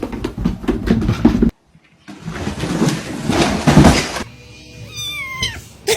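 A cat meowing near the end, calls that slide down in pitch, after two stretches of noisy sound broken by a short silence.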